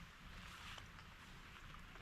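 Near silence: faint steady outdoor background hiss with a low rumble underneath.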